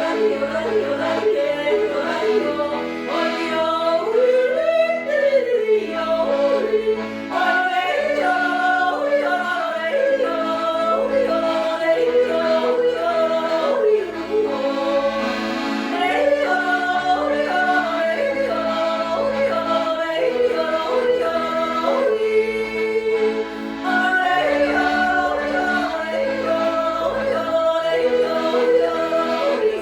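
Yodel song: a voice yodelling a melody with quick jumps in pitch over instrumental accompaniment with a bass line.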